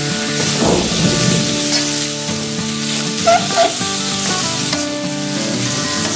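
Rice vermicelli, carrots and leek sizzling in oil in a wok as a spatula stirs and scrapes through them. A little past halfway the spatula knocks twice against the wok in quick succession.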